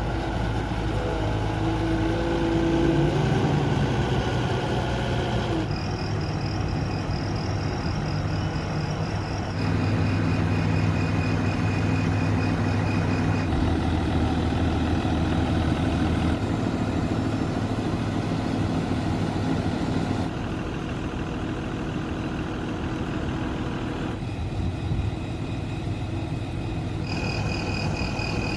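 Diesel engine of a Linde H140 14-ton forklift running, its note shifting abruptly every few seconds. A high-pitched warning tone sounds over it for a stretch in the first half and again near the end.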